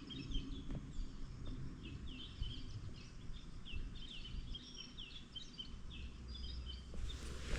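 Small birds chirping with many short, quick falling notes, over a low outdoor rumble; a rustle of noise comes in near the end.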